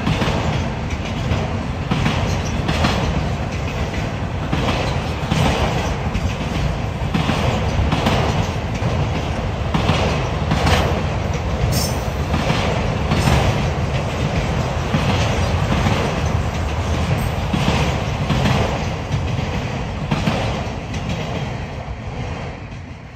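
Freight train cars rolling past, their steel wheels clacking over rail joints in a regular rhythm of roughly one to two clacks a second above a steady rumble, easing off near the end.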